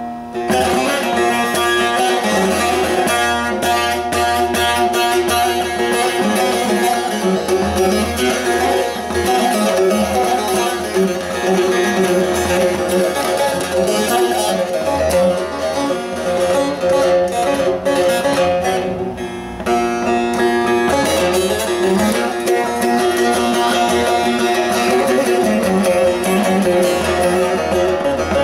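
Bağlama (saz) with a carved mulberry bowl, played with dense, rapidly plucked notes, easing briefly a little past two-thirds of the way through before carrying on.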